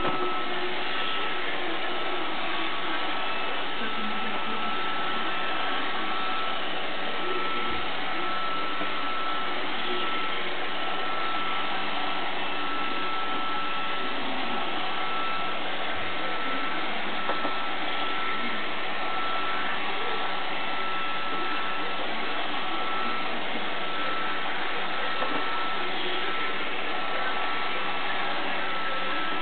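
iRobot Roomba 560 robot vacuum running, its motor and brushes giving a steady whirr with a thin, steady whine over it.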